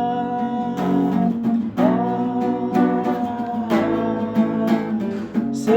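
Song with strummed acoustic guitar under a voice holding long sung notes, two drawn-out notes one after the other.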